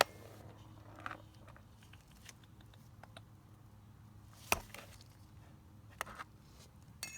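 A few scattered clicks and knocks from small carburetor parts and tools being handled on a bench, with the loudest knock about four and a half seconds in, over a low steady hum.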